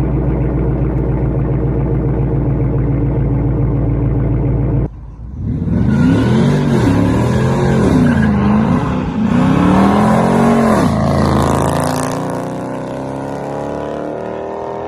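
Cold-started 5.7 Hemi V8 with active exhaust and Dynomax Mini Race Bullet mufflers, idling steadily. After an abrupt break about five seconds in, it is revved several times, the pitch rising and falling with each blip, then it settles back to a steady idle.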